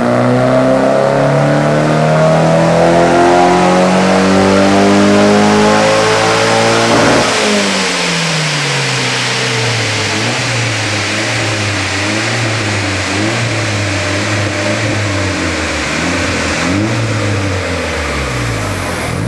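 Nissan 200SX S14a's turbocharged SR20DET four-cylinder, breathing through an Apexi induction kit and a 3-inch Apex exhaust, making a loud full-throttle pull on a chassis dyno: the revs climb steadily for about seven seconds, then the pitch drops sharply. It runs on at lower revs with a wavering rise and fall.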